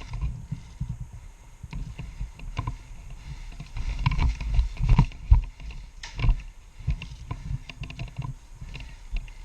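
Irregular low thumps and rumbling from a player moving with a body-worn camera, with scattered sharp clicks that are loudest around the middle.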